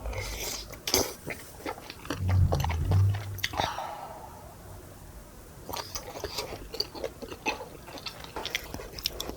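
A person chewing and biting tteokbokki close to the microphone: wet mouth clicks and smacks, with two low thuds about two and three seconds in.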